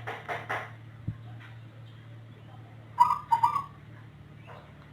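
A zebra dove (perkutut) cooing: a few soft notes right at the start, then about three seconds in a loud phrase of three quick clear notes. The call is unusual, unlike that of ordinary local or Bangkok-bred perkutut. A steady low hum runs underneath.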